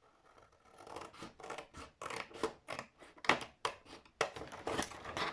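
Scissors cutting a strip of cardstock: a quick run of snips, about three a second, starting about a second in.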